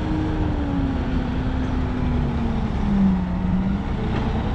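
Dump truck's diesel engine running at low speed, its note dropping in pitch over the first few seconds and then holding steady as the revs fall.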